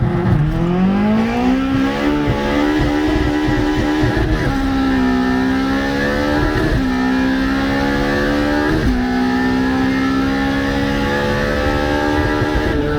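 A car engine accelerating hard under full throttle, revs climbing steadily and dropping sharply at three gear upshifts, about two seconds apart, each followed by another climb.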